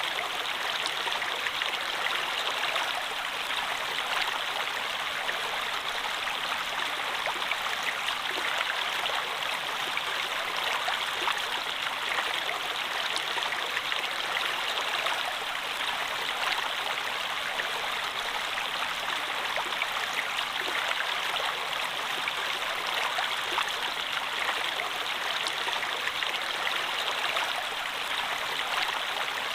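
Running water flowing steadily: an even, unbroken rush with faint small splashes in it.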